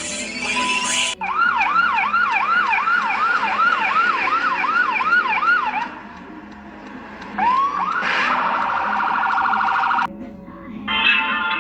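Emergency vehicle siren sounding a fast yelp, its pitch sweeping up and down about twice a second for several seconds. After a short dip, the siren winds up again and switches to a much faster warble.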